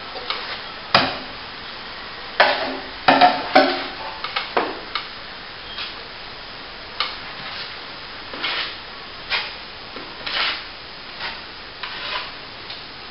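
Plaster mix being agitated to make it set quicker: irregular scraping and stirring strokes, bunched together in the first few seconds, then single strokes about once a second.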